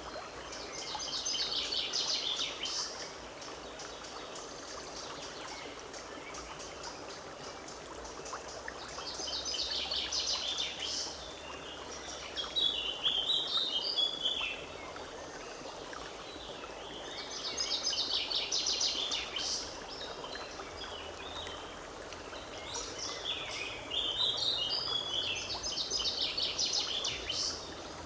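Forest stream running steadily, with a songbird singing short phrases of rapid high notes, each a couple of seconds long, about five times.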